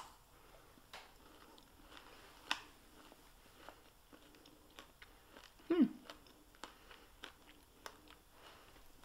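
Close-miked biting and chewing of a no-bake pecan pie ball with a firm candy-coating shell: a sharp click of the bite right at the start, then scattered soft mouth clicks and smacks.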